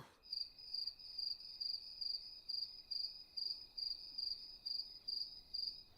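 Crickets chirping in a steady, high, pulsing chirp about twice a second: the cartoon sound effect for an awkward silence.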